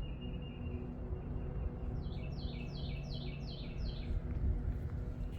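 A songbird singing: a thin, steady high whistle for about a second and a half, then a quick run of about eight notes, each sliding down in pitch, starting about two seconds in.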